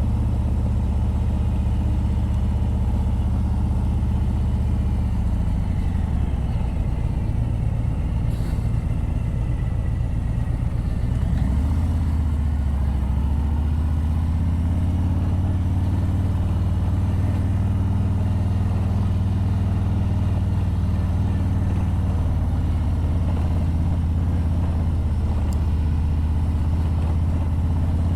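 Harley-Davidson touring motorcycle's V-twin engine running at low road speed, under rushing wind and tyre noise. The engine note drops about five seconds in, then picks up again about eleven seconds in as the bike pulls on.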